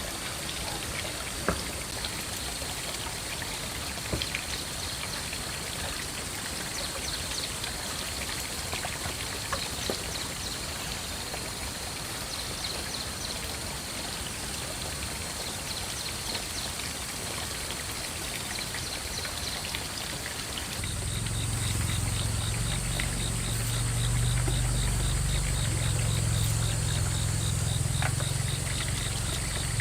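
Steady running water. About two-thirds of the way through, the sound gets louder as a low hum and a fast, even ticking join it.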